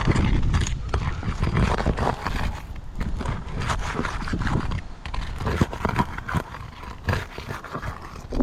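Irregular scraping and knocking as a creased asphalt roof shingle is worked loose for removal, over a steady low rumble.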